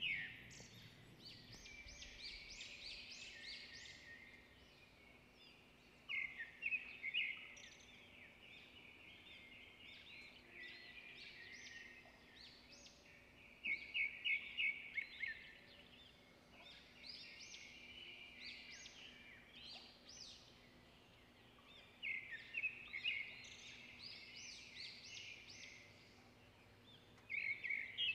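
Birds chirping in quick runs of high notes, with a louder run every several seconds.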